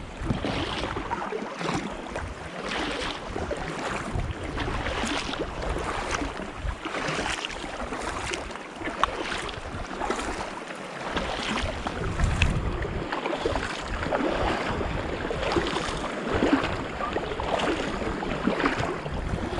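Kayak paddles dipping and splashing in regular strokes, with sea water lapping around an inflatable kayak and wind rumbling on the microphone.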